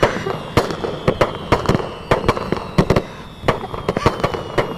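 Fireworks going off overhead: a string of sharp bangs and crackles, about three to four a second at irregular spacing, over a low rumble.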